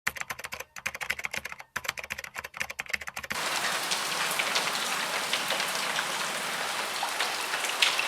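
Rain: for about the first three seconds a rapid, irregular patter of separate sharp taps, then an abrupt switch to steady heavy rain, a dense even hiss with single drops striking close by.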